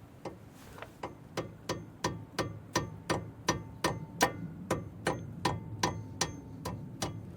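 Light hammer taps on metal, about three a second, evenly paced and getting louder, each with a short metallic ring, driving a part into place.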